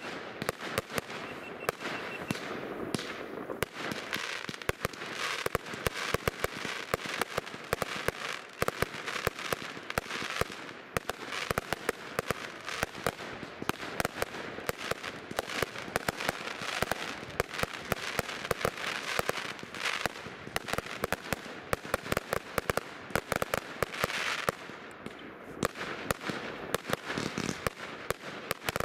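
Fireworks going off in a rapid, unbroken string of bangs and crackles.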